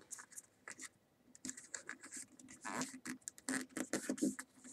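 A sheet of paper being folded and creased by hand: irregular soft rustles and scratchy crinkles, sparse at first and busier in the second half.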